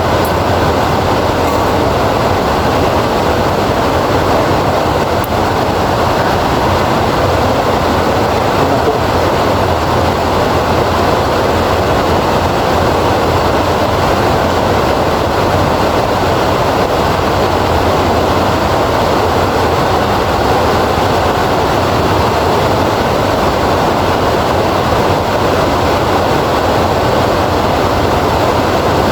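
Steady heavy rainfall, an even unbroken hiss and patter with no thunderclap.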